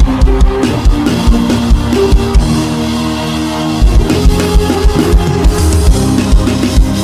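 Church praise band music with a drum kit and guitar: a steady kick-drum beat under sustained guitar and keyboard lines, the drums dropping out for about a second midway before the beat comes back.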